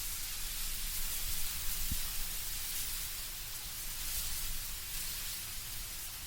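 Wind blowing through autumn trees, dry leaves rustling in a steady hiss, with a low rumble of wind underneath.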